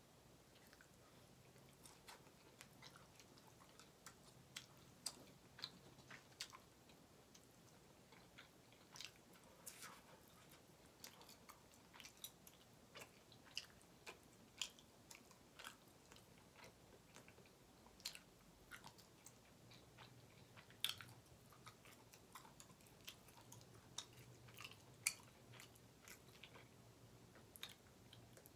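A person chewing and biting grilled chicken and steak kabob close to the microphone: irregular short mouth clicks and smacks, a few of them louder in the second half.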